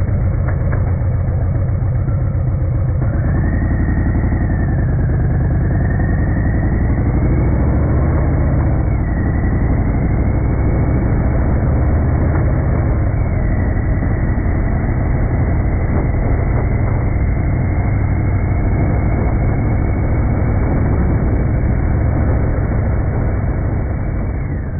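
Harley-Davidson Fat Bob's Milwaukee-Eight 114 V-twin engine running steadily, fading out near the end.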